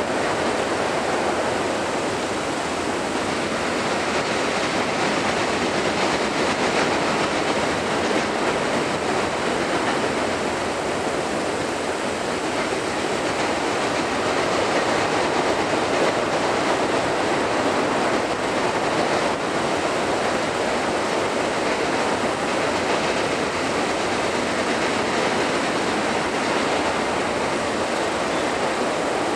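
Double-stack intermodal freight train's well cars rolling steadily across a steel truss bridge, a continuous noise of wheels on rail without clear individual clicks.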